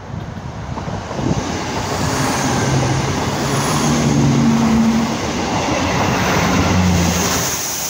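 ScotRail diesel multiple unit passing close by, its engine drone and rolling wheel noise building up about a second in and staying loud as the carriages go past.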